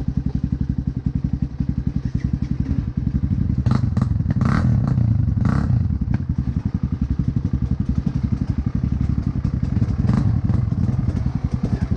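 Motocross bike engine running with a steady, fast pulse, with a short patch of clattering knocks about four to six seconds in.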